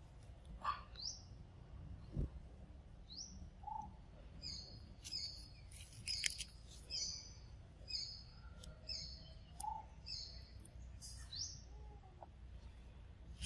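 Wild birds calling: a few rising whistled notes, and a run of short high chirps repeated about twice a second through the middle, with a lower note now and then.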